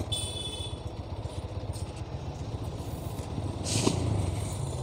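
GPX Demon 165R's single-cylinder engine running steadily at low revs while the bike creeps along a busy street. A short hiss about four seconds in.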